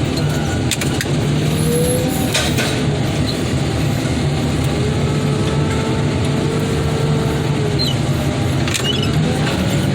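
Heavy machine's engine running steadily, with a fainter whine that rises and falls in pitch and a few sharp metal knocks.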